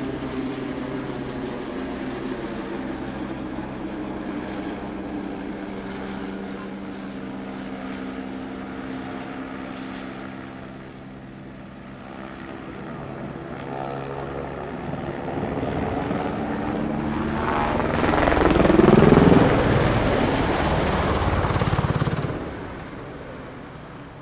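An engine droning with a steady pitched hum that fades, then swells again with its pitch sliding to a loud peak. It cuts off suddenly near the end.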